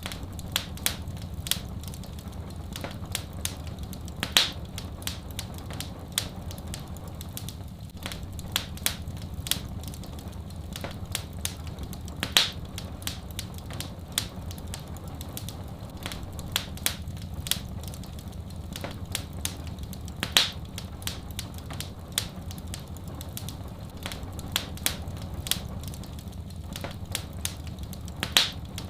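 Wood fire in a fireplace crackling and popping over a steady low rumble. The pops come irregularly, several a second, with a louder one about every eight seconds.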